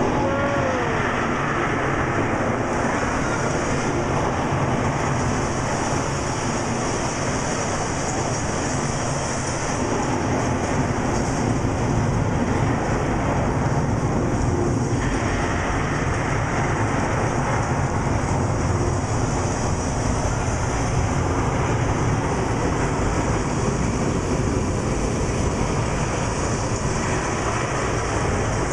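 Steady, unbroken rushing of the mall's staged indoor rainstorm, with heavy artificial rain pouring down and a low rumble under it.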